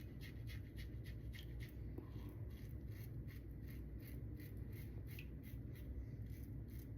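Safety razor scraping through lathered stubble in quick, short strokes: a faint, rhythmic rasp, about four or five strokes a second.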